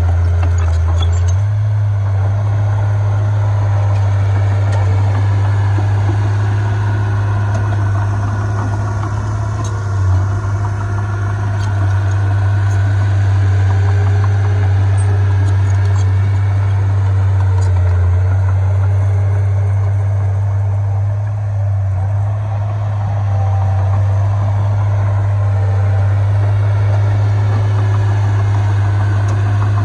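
Heavy diesel engine of earthmoving equipment running steadily with a deep, continuous rumble.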